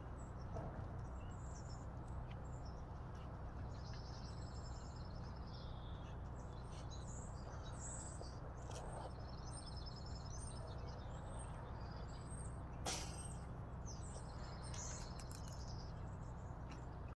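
Songbirds chirping and giving short rapid trills in the background, over a steady low outdoor rumble. One sharp click or knock sounds about thirteen seconds in.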